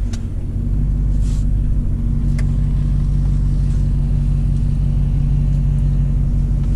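Truck engine running steadily, picking up revs and level about a second in as the truck pulls away.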